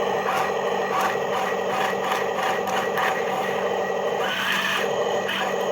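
Small electric motors and gears of a toy remote-control excavator whirring steadily as it works, with light ticking; the whine shifts in pitch briefly about four seconds in.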